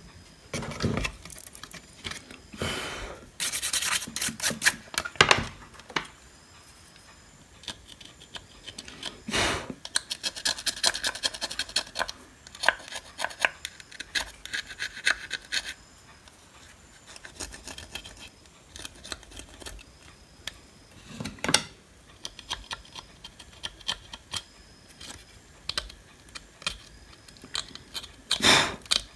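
Intermittent scratching and rubbing on a circuit board by hand, in irregular runs of short strokes with scattered clicks.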